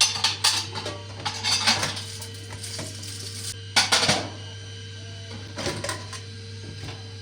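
Dishes and cutlery clattering and clinking in a few short bursts, over a steady low hum.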